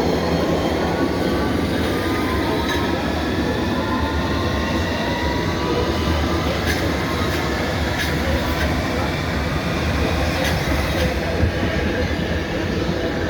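A train running on the rails: a steady loud rumble with a faint, slowly drifting high whine and squeal from the wheels, and a few light clicks.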